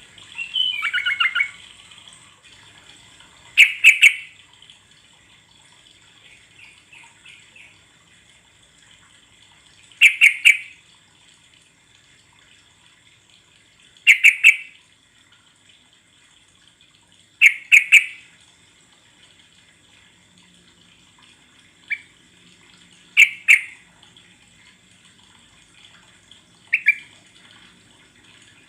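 Yellow-vented bulbul (trucuk) calling: a quick chattering phrase at the start, then short bubbly calls repeated every few seconds, about seven times, over a steady high-pitched background hiss.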